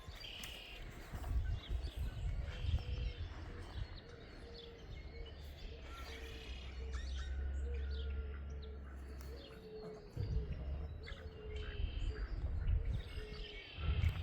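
Birds chirping, short calls repeated again and again, over low rumbling noise that comes and goes.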